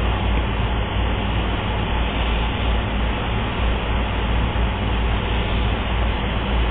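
Steady rushing noise with a low hum underneath, unbroken throughout.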